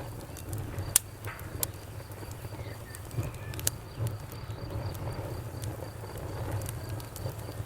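Wood fire crackling: scattered sharp pops and snaps, the loudest about a second in, over a low steady rumble of the flames.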